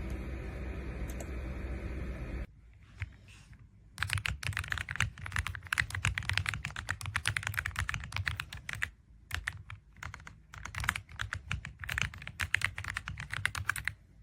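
Fast typing on the AULA F99 mechanical keyboard: a dense run of key clicks starting about four seconds in, with a short pause near the middle. Before the typing, a steady hum cuts off abruptly.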